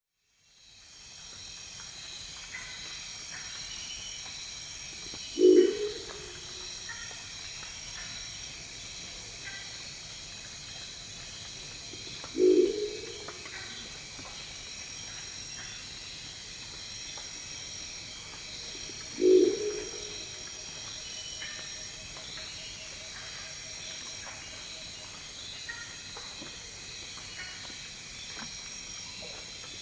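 Crested owl (Lophostrix cristata) giving its deep, gruff, croaking calls: three short low calls about seven seconds apart. Behind them runs a steady high-pitched background chorus with faint scattered chirps.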